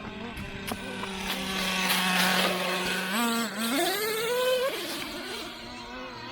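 Nitro engine of a Traxxas T-Maxx RC monster truck running at a steady pitch, then revving up with a rising pitch about three seconds in and dropping back near the end.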